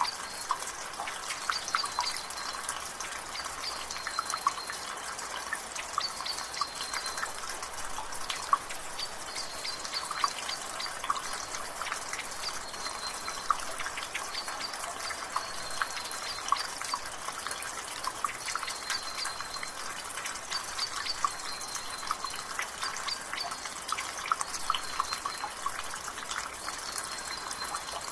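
Water dripping and trickling from a rain gutter in drizzle, a fast irregular patter of drips. A bird gives a short high call about every two seconds in the background.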